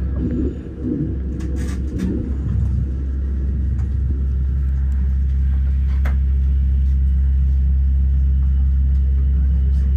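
Steady low rumble of the Glacier Express metre-gauge train running along the line, heard inside the carriage, with a few brief clicks.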